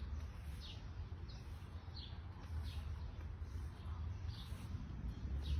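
Birds chirping: short, high chirps repeating about every half second to a second, over a steady low rumble.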